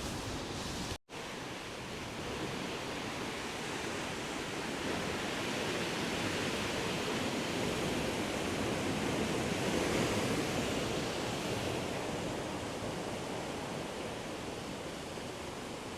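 Steady rush of fast-flowing water from a rocky stream, swelling a little around the middle, with a brief cut in the sound about a second in.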